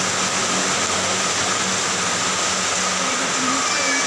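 Steady, heavy rain noise, with a faint low hum underneath.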